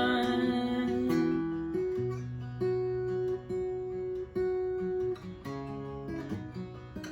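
Acoustic guitar playing an instrumental passage between sung lines of a worship song, chords and single notes held and changing about once a second.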